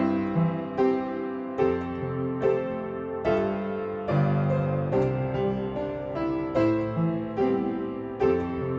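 Background piano music: slow chords, a new one struck about every second, each ringing and fading.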